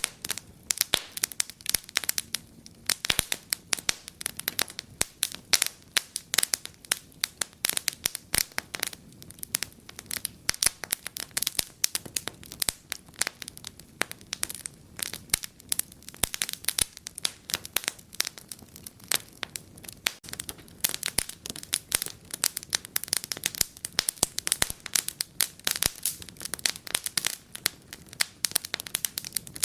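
Wood fire in a fireplace crackling steadily, a dense run of sharp pops and snaps at irregular intervals.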